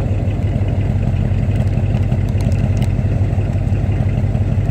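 Car engine idling steadily, an even low rumble with a fast regular pulse.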